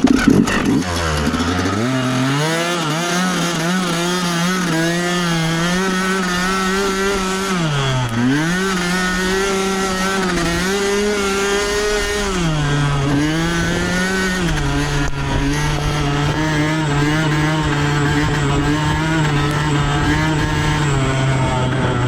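Dirt bike engine under way at high, fairly steady revs, dipping briefly about eight seconds in and again twice around twelve to fourteen seconds, then holding a little lower toward the end.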